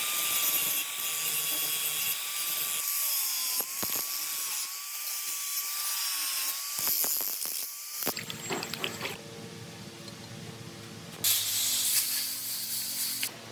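A power tool working on metal or wood with a steady high hiss and a thin, wavering whine. About eight seconds in the hiss drops away, leaving lower steady tones, then returns loudly for a couple of seconds near the end.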